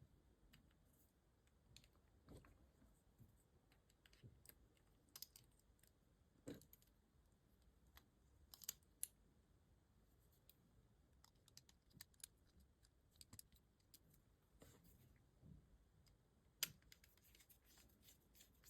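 Near silence broken by faint, scattered clicks and light taps of small parts being handled at a workbench, growing more frequent near the end.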